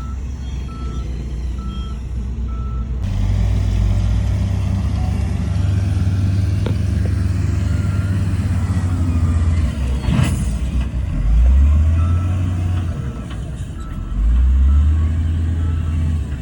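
Heavy construction-equipment diesel engines running loud and steady, with a reversing alarm beeping at an even pace for the first few seconds and again faintly later. The engine note rises twice in the second half, and a brief sharp noise stands out about ten seconds in.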